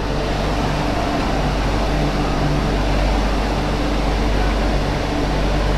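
MTR Tsuen Wan line Q-train running between stations: a steady loud rush of wheel, rail and air noise with a low hum underneath.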